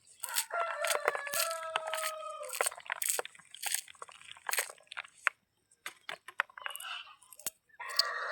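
A rooster crows once, a long call of about two seconds, over a run of sharp crunching clicks like vegetables being cut.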